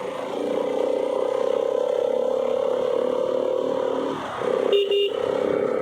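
Bajaj Pulsar RS200's single-cylinder engine running steadily while riding uphill. The engine note dips briefly about four seconds in, and a short, louder, higher-pitched sound follows about five seconds in.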